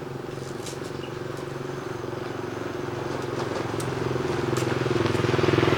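A motorbike engine running steadily, getting louder until a peak near the end.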